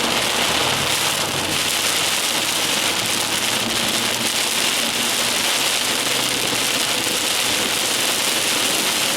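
Heavy rain falling and spattering steadily, with a faint low hum underneath.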